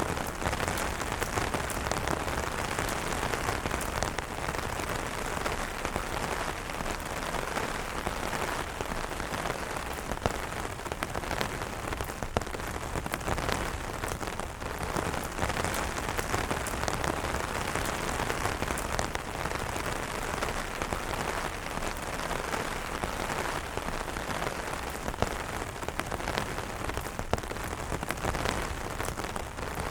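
Steady rain pattering on umbrella fabric, a dense hiss of drops with individual drop ticks scattered through it.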